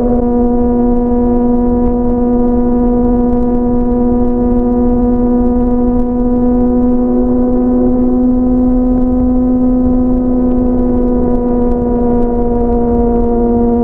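Sport motorcycle's inline-four engine droning steadily at freeway cruising speed, its pitch sagging slightly near the end, with wind rumble underneath.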